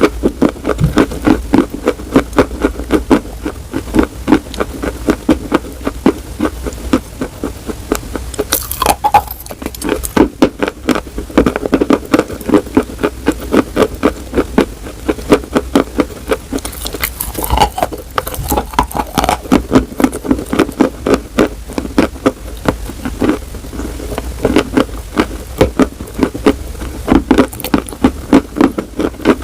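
Close-up ASMR chewing: rapid, continuous crunching of something crunchy, several crunches a second without pause.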